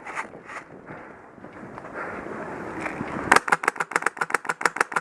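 Footsteps rustling through brush, then from about three seconds in a rapid burst of full-auto fire from a Polarstar-powered HK416 airsoft rifle, about eleven sharp shots a second, lasting under two seconds.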